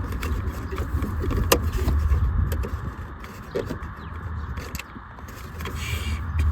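Scattered light metallic clicks and rattles of a bolt and bracket being handled and fitted, with a short squeak near the end, over a steady low rumble.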